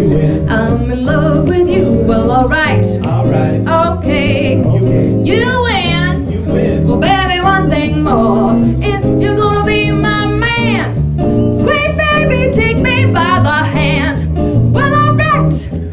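A band playing, with guitar and a rhythm section under a wavering lead melody with vibrato.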